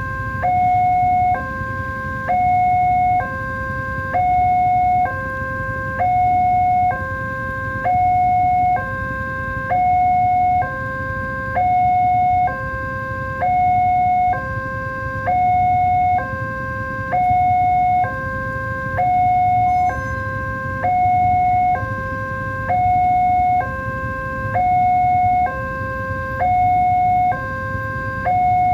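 Indonesian railway level-crossing warning alarm sounding. It alternates steadily between a high and a low electronic tone, about one high-low pair every two seconds, over a low background rumble.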